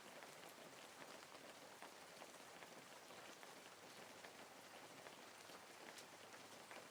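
Faint, steady rain falling, an even hiss full of fine patter.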